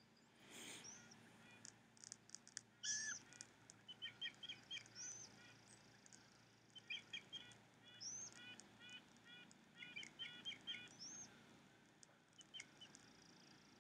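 Faint bird calls: quick runs of short chirps, and a high rising whistle repeated every two or three seconds.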